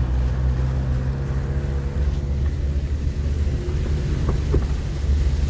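Vehicle engine running under load, heard from inside the cab as a steady low rumble with a faint whine over it. Two short knocks about four and a half seconds in.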